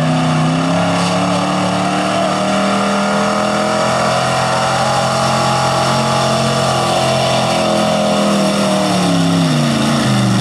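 Pulling truck's engine running hard at high revs as the 4x4 drags a 6000 lb-class pulling sled. The pitch holds high for most of the pull, then falls in the last second or so as the engine winds down.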